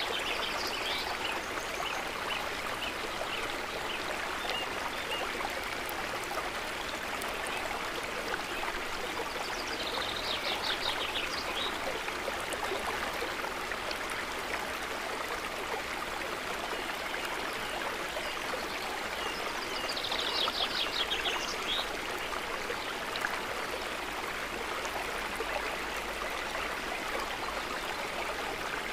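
Water trickling and lapping steadily. A short, high trilled call sounds three times, about ten seconds apart.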